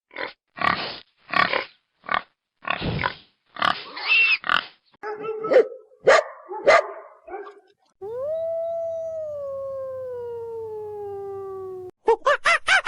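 Several different farm animal calls played one after another: a run of short, harsh cries, then one long call that slides slowly down in pitch for about four seconds, then a quick series of rapid repeated calls near the end.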